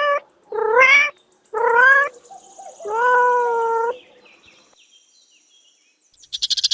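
Kitten meowing: the end of one meow, then three more, the last one longer and held, followed by a pause.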